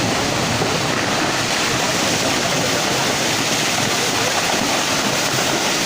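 Floodwater rushing in a torrent, a loud steady rush of water with no let-up.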